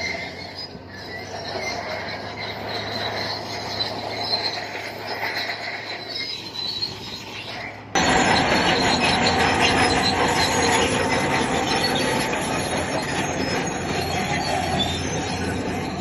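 Crawler bulldozer working, its steel tracks squealing and clanking over the diesel engine. The sound cuts abruptly to a louder, denser shot about halfway through.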